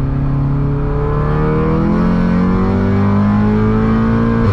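Tuned VW Golf GTI's turbocharged 2.0-litre four-cylinder under full-throttle acceleration, heard from inside the cabin, its pitch rising steadily as the revs climb. Right at the end a short crack and a sudden drop in pitch mark an upshift.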